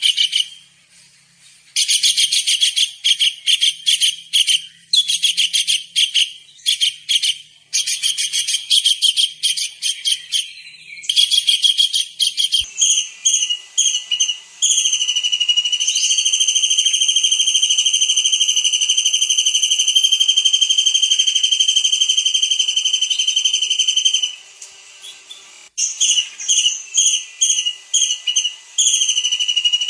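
Kingfisher calling: fast trills of shrill, high whistled notes, then about 14 seconds in one long unbroken high whistle held for some ten seconds, followed by short sharp notes again.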